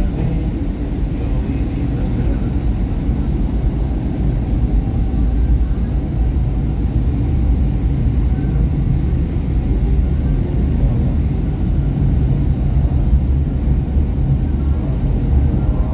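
SEPTA Market-Frankford Line train running between stations, heard from inside the car: a steady low rumble of wheels on rail and traction motors, with a faint hum and no let-up.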